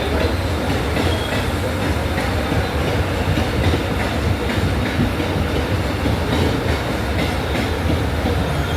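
Mumbai local electric train running at speed: a steady heavy rumble with the wheels clattering over rail joints.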